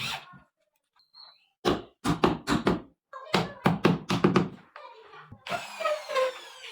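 Two quick runs of hard knocks, about five a second, followed near the end by a short rasping, scraping noise.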